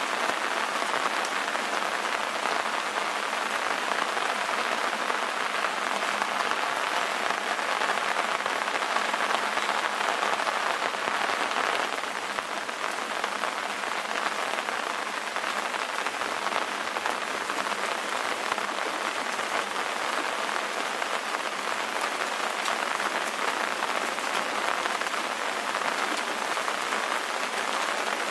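Steady rain ambience: an even hiss of rainfall, with a slight drop in level about twelve seconds in.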